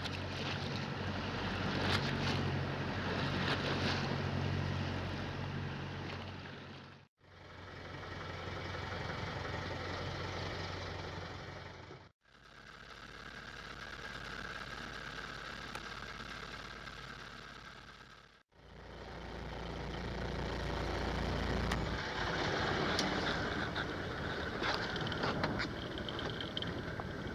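Boat engine running steadily under wind and water noise, heard in four short stretches that each fade out and back in.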